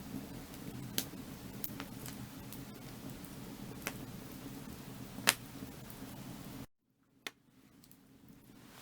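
Burning firewood crackling, with sharp pops over a steady low hiss of the fire; the loudest pop comes a little past the middle. Near the end the sound cuts out suddenly, one more pop sounds, and then the fire fades back in.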